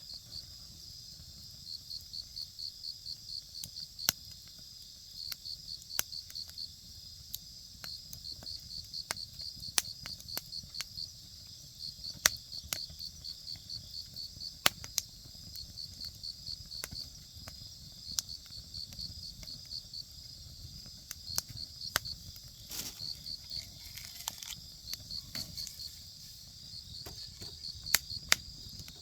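Wood campfire crackling, with sharp pops every second or two, over insects chirping in repeated short trains of rapid high-pitched pulses.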